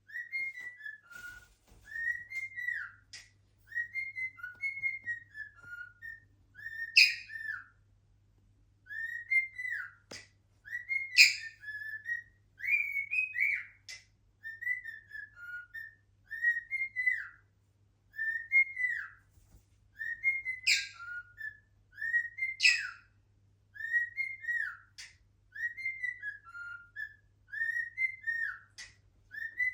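Cockatiel singing: a long string of short whistled notes, each rising and falling at about the same pitch and repeating roughly once a second, with a few sharp, louder shrill notes mixed in.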